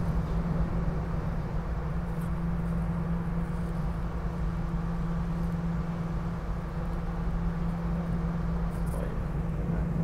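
SEPTA Regional Rail electric train heard from inside the passenger car while running: a steady low hum over an even rumble of wheels on track.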